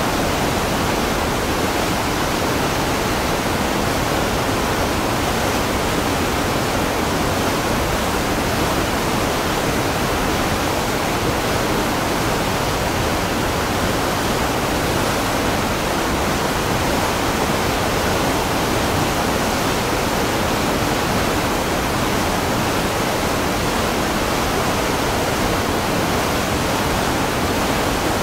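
Waterfall: the even, unbroken rush of falling water, steady in level throughout.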